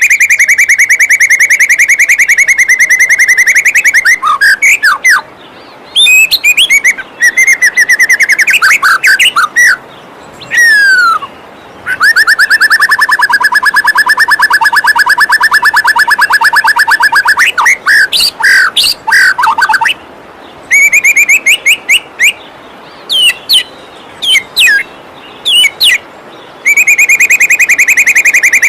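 White-rumped shama (murai batu) song played as a training recording: long, fast rattling trills lasting several seconds each, broken by short pauses and quick sweeping whistled notes. A steady rush of flowing waterfall water fills the pauses underneath.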